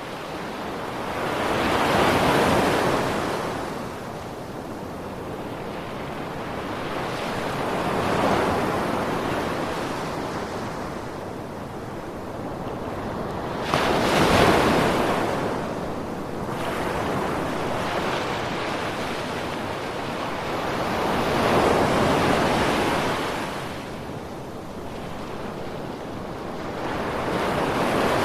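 Ocean surf: waves breaking and washing ashore, one swell about every six seconds. A sharper, sudden break comes about halfway through.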